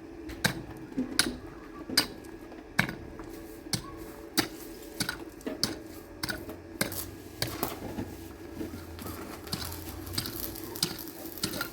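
Irregular sharp clinks and knocks of hard objects striking, sometimes several a second, over a steady low hum.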